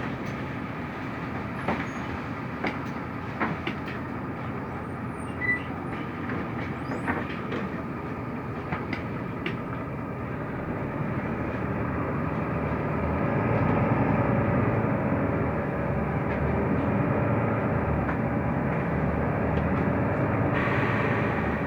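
Inside the cabin of a Mercedes-Benz O345 Conecto LF city bus on the move: steady engine and road rumble with scattered rattles and clicks. The rumble grows louder about halfway through.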